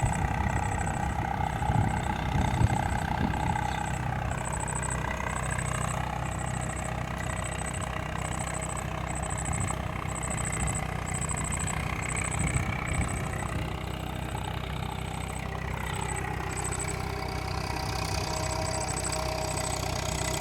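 Tractor engine running steadily, with a faint high note pulsing a little over once a second above it.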